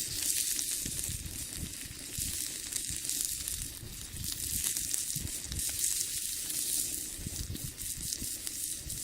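Wood fire burning in a homemade brick rocket stove with cooking over it: a steady hiss with irregular crackles and pops.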